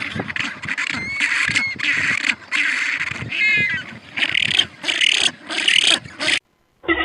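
A bird giving a rapid series of harsh calls, about two a second, with a couple of short whistled notes mixed in near 1 s and 3.5 s. The calls stop abruptly near the end.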